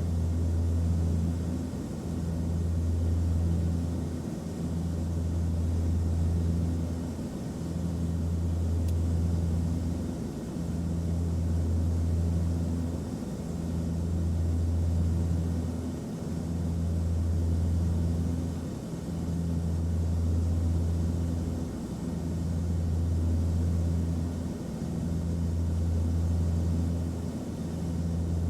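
Airplane cabin noise: a steady low drone with a hiss above it, swelling and dipping about every two seconds.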